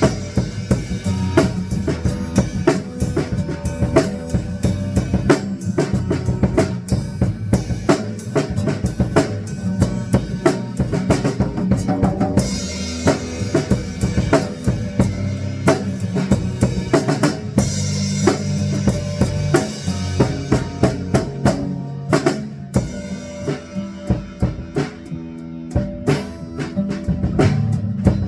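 Live band jamming at rehearsal, the drum kit to the fore with steady kick and snare hits and cymbal crashes, over a bass line.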